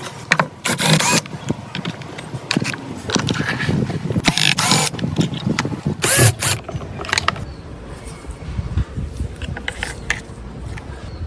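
Metal parts being worked by hand, scraping and clattering irregularly, with three louder harsh scrapes in the first half.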